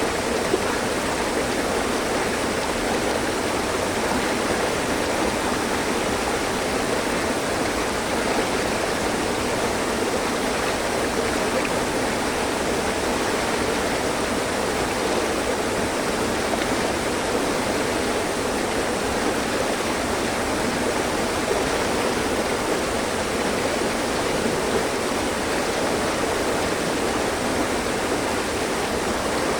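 Mountain stream flowing steadily over rocks: a constant, even rush of water with no breaks or changes.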